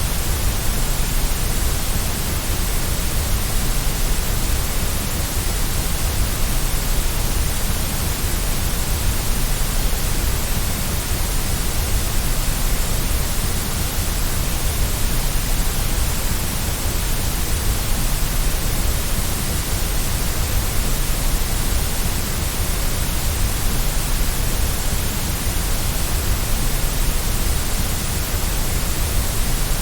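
Steady synthetic white noise for baby sleep: an even, unchanging hiss with a low rumble beneath it.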